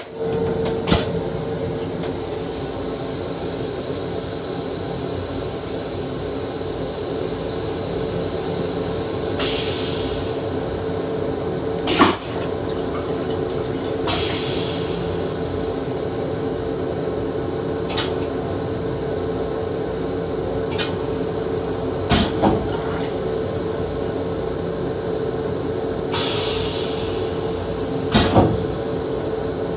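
Steady hum with a constant tone inside a Long Island Rail Road M7 electric railcar's restroom, with several sharp knocks and a few short hissing swells.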